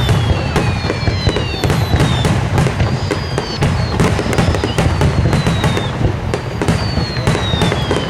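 Fireworks display: a dense, continuous run of crackling and popping over low booming shell bursts, with several high whistles gliding down in pitch through it.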